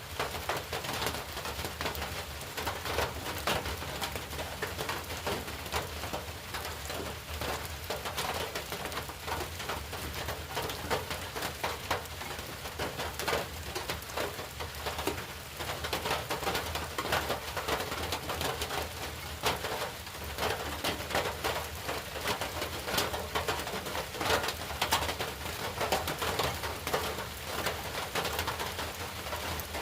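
Steady rain, with many individual drops striking hard surfaces in a dense, irregular stream of small clicks over a continuous hiss.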